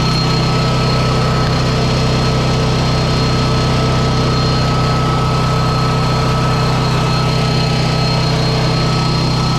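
Engine idling steadily with a constant high whine over it, likely the service rig's engine running to charge a semi truck's dead batteries.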